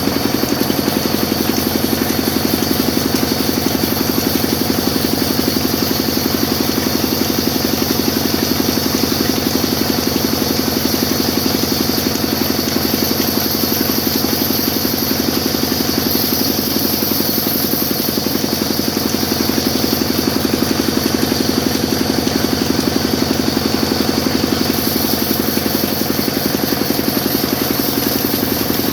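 Sawmill machine running steadily: a continuous mechanical drone with a fast, even pulse and a thin high whine above it.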